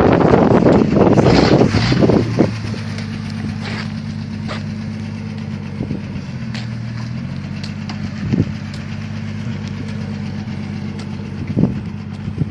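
1977 Jeep CJ5's engine running steadily at low revs, after about two seconds of wind buffeting on the microphone. A few short knocks come through later on.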